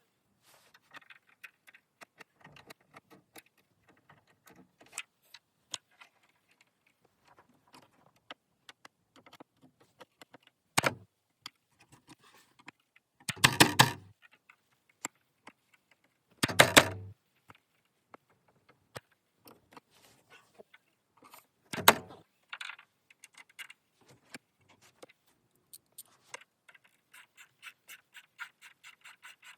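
Hand tools and hardware clinking and rattling against the tailgate fittings, with several louder metallic clanks in the middle. Near the end comes a rapid even run of clicks, like a ratchet wrench turning a bolt.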